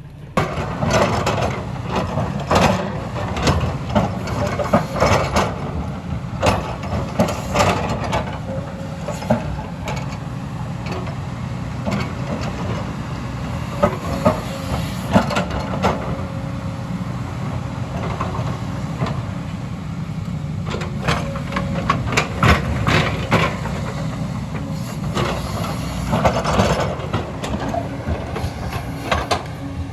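Excavator working: its diesel engine runs steadily under load, with frequent sharp clanks and knocks throughout. The sound comes in suddenly just after the start.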